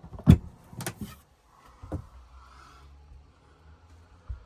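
Camper cupboard doors being shut and opened: a sharp knock, then two lighter knocks about half a second and a second and a half later.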